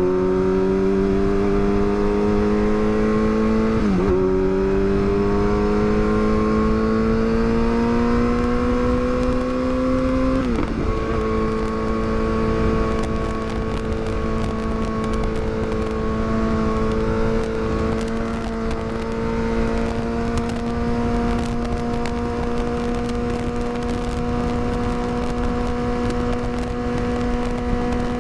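Yamaha R6 inline-four sport bike engine accelerating through the gears: the engine note climbs steadily, dips briefly at an upshift about four seconds in and again about ten seconds in, then holds a near-steady pitch while cruising.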